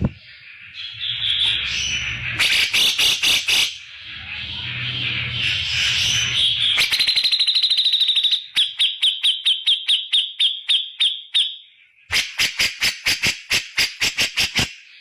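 Cucak jenggot bulbul (Alophoixus bres) calling loudly. A varied, scratchy chatter runs into a fast trill around seven seconds. Then come long runs of sharp, repeated notes at about four to five a second, broken by a brief pause near twelve seconds.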